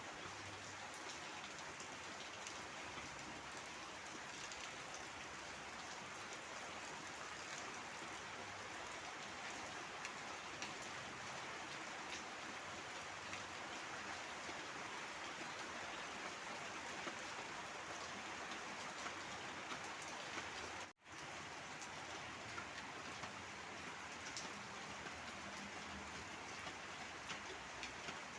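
Heavy rain falling steadily, with the fine patter of individual drops. It cuts out for an instant about three quarters of the way through.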